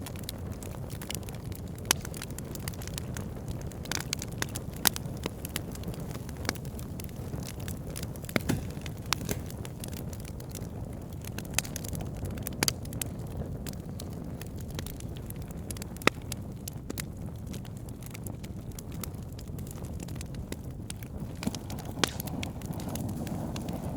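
Wood fire burning with a steady low rumble and irregular sharp crackles and pops from the logs. A few louder pops stand out.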